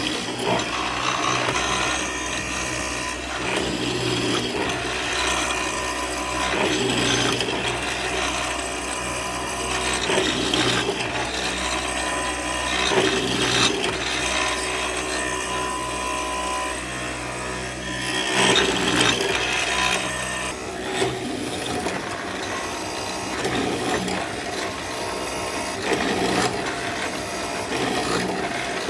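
A power tool working wood: a steady motor hum under rough scraping of wood that swells and eases over and over.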